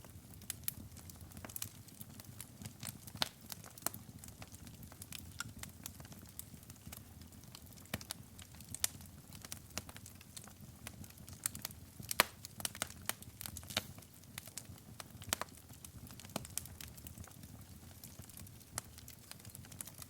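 Wood fire burning in a fireplace: irregular sharp crackles and pops over a soft low rumble of the flames, with a busier run of pops about halfway through.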